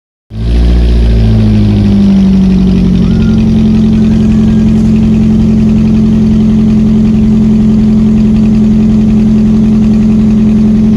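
Chevrolet Celta's four-cylinder engine running loud and steady through a straight-piped exhaust with no muffler. The pitch settles slightly lower in the first few seconds, then holds constant.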